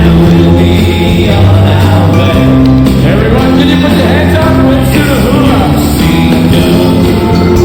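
A live band playing an upbeat rock-and-roll children's song, with singing.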